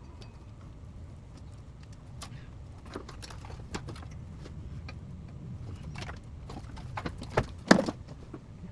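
Irregular clinks and knocks of hand tools against car metal, with one loud knock about three-quarters of the way through, over a low steady rumble.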